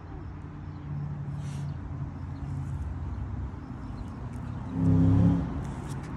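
A motor vehicle's engine running, a steady low hum, which swells briefly for about half a second near the end.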